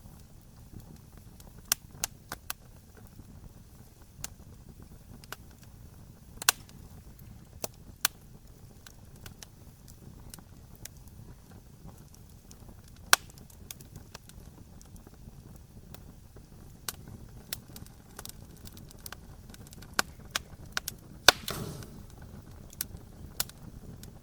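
Wood fire crackling, with irregular sharp pops and snaps over a steady low rumble of flame; a short flurry of louder pops and a brief hiss comes near the end.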